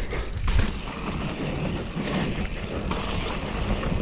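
Mountain bike descending a wet, muddy downhill trail: wind buffeting the microphone over the rumble of the tyres, with a few short knocks from the bike.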